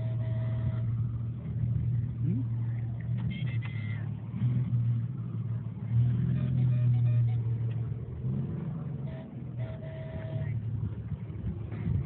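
BMW 330i engine running through an open exhaust (aftermarket headers and an X-pipe, with no resonator or muffler): a steady low drone that swells and eases with light throttle, loudest about halfway through.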